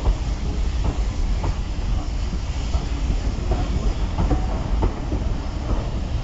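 Railway passenger coaches rolling past at a platform: a steady low rumble of the wheels with irregular clicks as they pass over rail joints.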